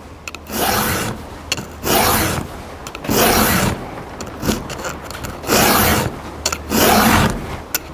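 Round file rasping across a chainsaw chain's cutter tooth in about five separate push strokes, roughly one every second and a half. The strokes run smoothly now that the tooth's rounded, dull edge has been filed away.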